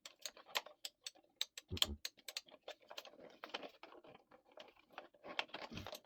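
Scattered irregular clicks and light taps of a small electric air compressor being handled, with a dull thump about two seconds in. No motor is running: the compressor fails to start.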